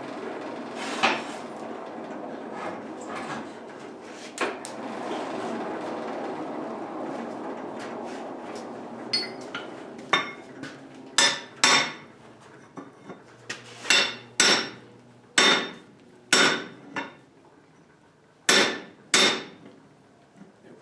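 Hammer blows on a 3/4-inch steel sucker rod being forged, sharp ringing strikes, often in pairs about half a second apart, through the second half. Before them, a steady rushing noise with a few lighter knocks.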